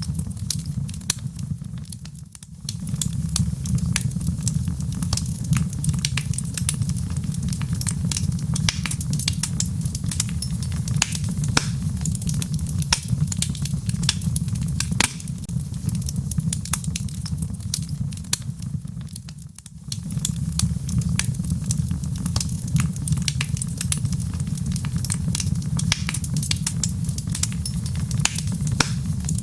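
Log fire burning in a fireplace: a steady low rumble of the flames with dense, irregular crackles and pops from the wood. The sound dips briefly twice, about 2 seconds in and again about two-thirds of the way through.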